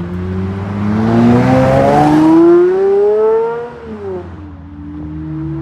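High-performance supercar engine accelerating away, its pitch rising for about three seconds, then dropping sharply about four seconds in before climbing again.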